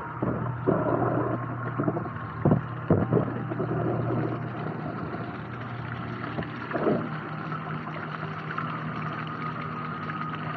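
Water flowing and gurgling along a water-park river channel over a steady low hum, with a few sharp knocks and splashes, the loudest about two and a half, three and seven seconds in.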